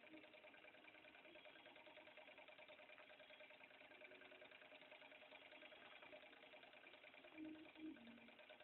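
Model Stirling engine running steadily: a faint, fast mechanical ticking with a steady hum.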